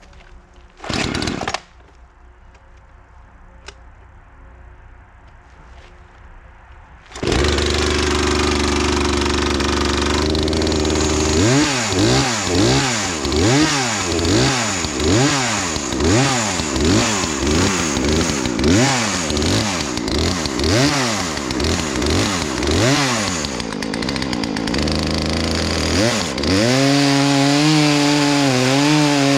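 A gasoline chainsaw starts up after a brief loud burst, then runs with its engine speed rising and falling about once a second. It settles to a steadier pitch near the end.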